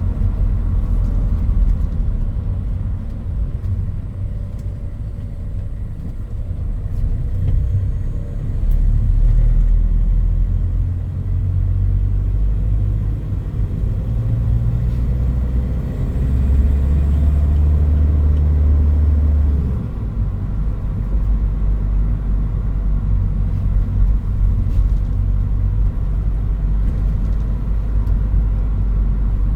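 Toyota Hilux Mighty-X pickup under way, heard from inside the cab: a steady low engine and road rumble. The engine note swells twice, the second time for a few seconds, and drops suddenly just before the 20-second mark.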